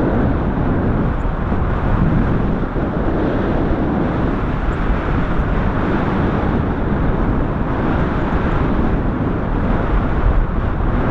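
Strong wind buffeting a camera microphone in flight on a paraglider: a loud, steady rush of noise, heaviest in the low end, with no let-up.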